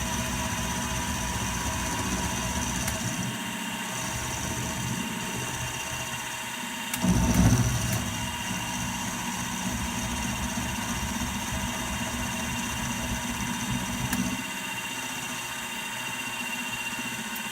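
Milling machine running with a steady motor hum and whine, with a louder, rougher burst lasting about a second some seven seconds in, then a change in the sound near the end.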